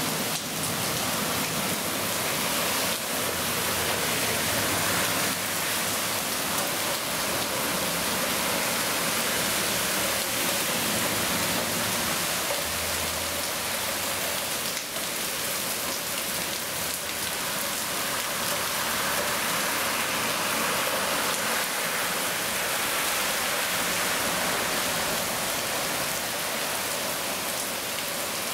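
Heavy rain pouring down steadily, an even hiss of drops on pavement, street and a waterlogged lawn.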